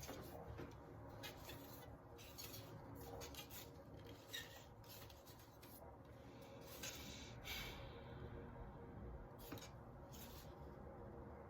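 Faint scraping and rustling of small objects being handled, a scattering of soft short scratches over a low room hum.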